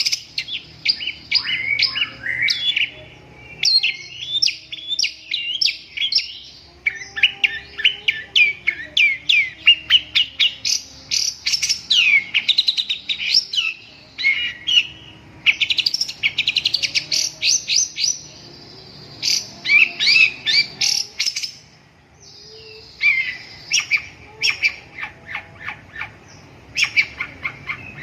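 Long-tailed shrike (cendet) singing fast runs of sharp chattering and whistled notes, in bursts with short pauses between them.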